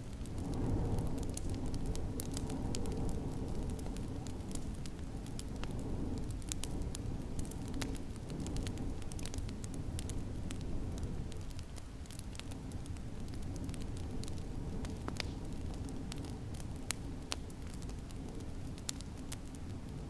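Wood fire crackling in a fireplace, with scattered sharp pops and snaps, over a steady low rumble of snowstorm wind.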